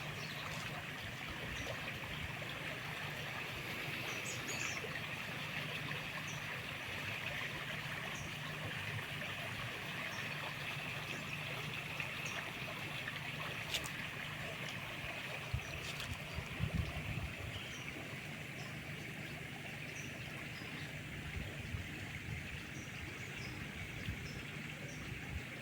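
Flowing river water, a steady rush, with short high chirps repeating every second or so over it and a couple of sharp clicks midway.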